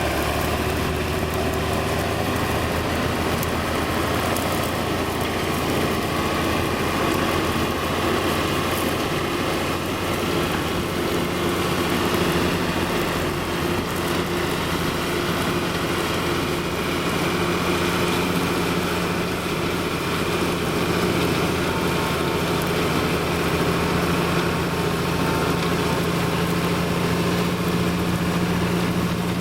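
Deutz-Fahr 150 MK3 tractor engine running steadily under load while pulling a five-furrow plough.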